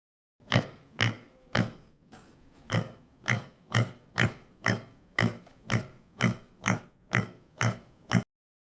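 Domestic pig grunting: a run of about fifteen short grunts, roughly two a second, cut off abruptly near the end.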